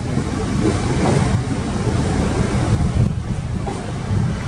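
LNER Azuma Class 800 bi-mode train rolling slowly out past the microphone: a steady low rumble and hiss from the moving coaches, mixed with wind buffeting the microphone.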